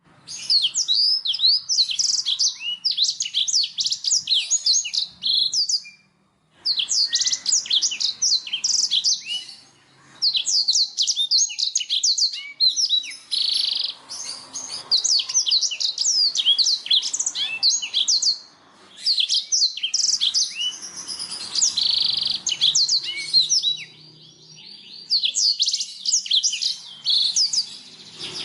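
Blackthroat (black-throated canary) singing long, rapid twittering phrases of quick high down-slurred notes, broken by a few brief pauses.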